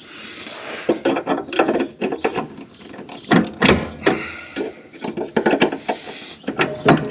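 Irregular clicks, clanks and knocks of metal parts and tools being handled on a lawn tractor's mower deck linkage, with a cluster of sharper knocks about three and a half seconds in and again near the end.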